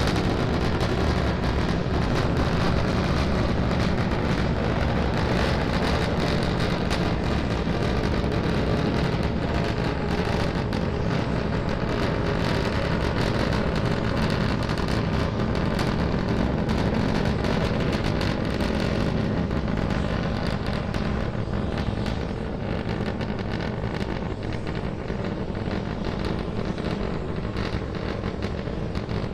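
SpaceX Starship SN10's three Raptor rocket engines firing during ascent: a steady, continuous rumble with no breaks that eases slightly about three quarters of the way through.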